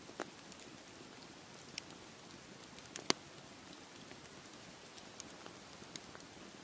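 Wood campfire crackling: scattered sharp pops over a steady hiss, the loudest pop about three seconds in.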